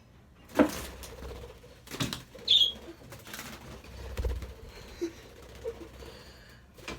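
A budgerigar flapping and fluttering while being caught by hand, with a few sharp knocks and bumps and one short high call about two and a half seconds in.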